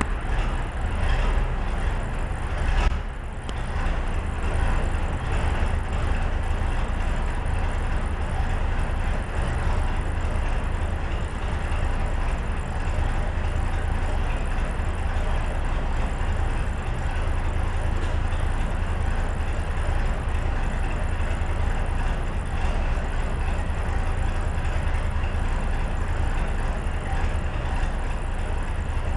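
Cummins V8 diesel engine of an Alvis Stalwart running steadily with a deep, even drone, not long after a cold start. A brief knock about three seconds in.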